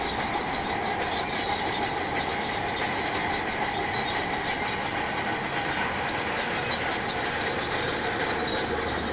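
Heavy construction machinery working: a steady diesel engine with metallic clatter and squeal.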